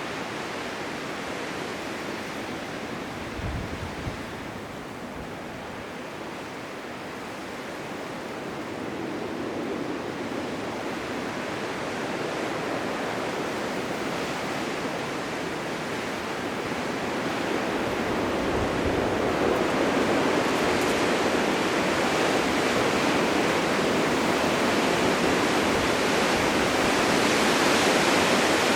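Blizzard wind: a steady rushing noise that swells louder about two thirds of the way through.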